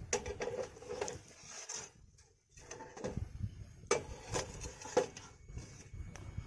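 Wood fire burning in a Picogrill 398 fire pit, crackling with irregular sharp pops, the loudest about four and five seconds in.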